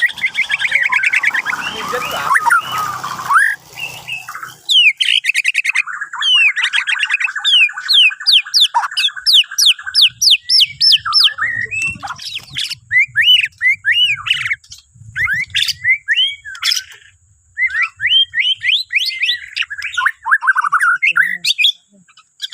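White-rumped shama (Bornean murai batu) singing a long, varied song: fast whistled sweeps and runs of quickly repeated notes, in phrases broken by short pauses.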